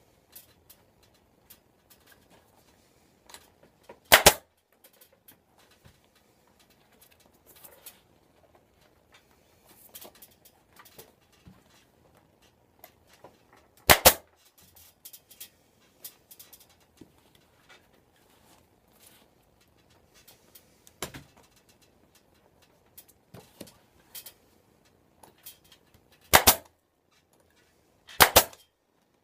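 Staple gun firing staples into a seat base, four loud sharp shots spaced several seconds apart, with faint clicks and rustling of the vinyl being handled between them.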